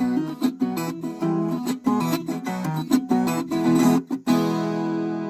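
Acoustic guitar music, quickly picked and strummed notes ending on a held chord near the end.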